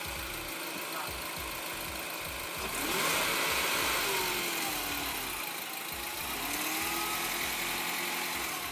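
Peugeot 207 GT's 150 hp 1.6-litre turbo petrol engine revving and pulling. Its pitch rises steeply about three seconds in and falls away, then climbs again and holds near the end.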